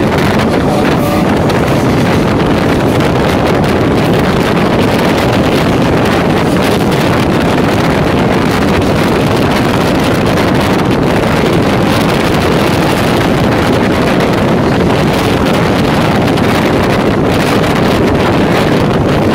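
Steady running noise of an Indian Railways EMU local train in motion, heard from aboard the train with wind buffeting the microphone.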